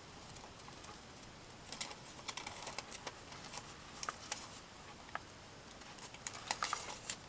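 Faint paper-crafting sounds: light clicks and rustles from handling and cutting magazine scraps, coming in small irregular clusters.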